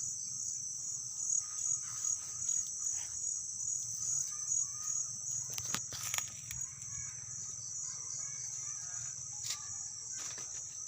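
Insects in steady, high-pitched chirring with a slight fast pulse, with a few sharp clicks about six seconds in and again near the end.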